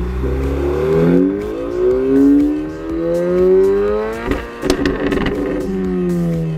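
Honda Civic Type R FN2's 2.0-litre four-cylinder engine through its exhaust, climbing in pitch twice under acceleration, with a patch of sharp crackles about four and a half seconds in, then settling to a lower, steady note.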